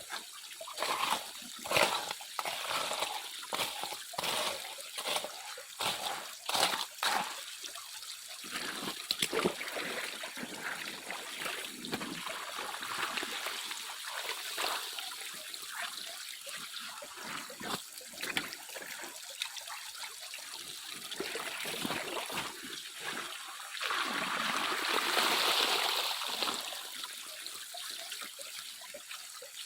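Water sloshing and splashing in a gold pan swirled by hand: about two splashes a second for the first eight seconds, then steadier trickling and splashing, with a louder rush of water for a few seconds near the end.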